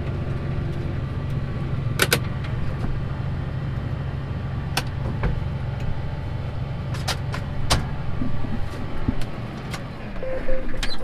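Vehicle engine running steadily with a low hum, with a few sharp clicks or knocks over it, twice close together about two-thirds of the way through.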